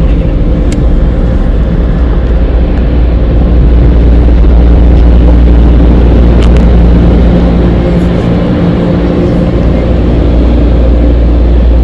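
Touchless car wash air dryer blowers running. It is a loud, steady rush of air over a low rumble and hum, growing a little louder about four seconds in and easing off again near the end.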